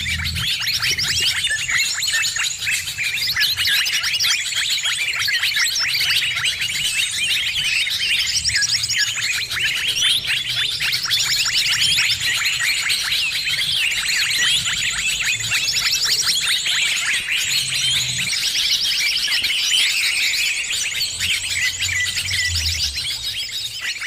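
Many small birds calling at once: a dense, unbroken chatter of rapid high chirps and trills, used as a bird-lure recording (suara pikat) to draw in birds. A patchy low rumble sits underneath.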